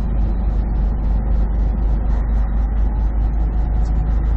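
Semi truck's engine and road noise heard inside the cab while driving, a steady low drone with an even rush of tyre noise. A fast, even run of faint high ticks, about eight a second, runs over it.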